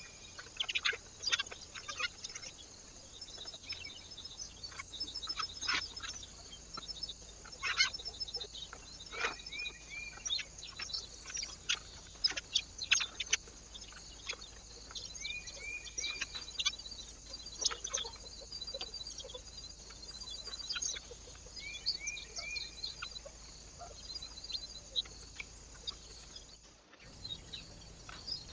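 Small birds chirping and calling at a bird feeder: short repeated notes and quick trills, mixed with many sharp taps and clicks. A brief dropout near the end marks a cut between recordings.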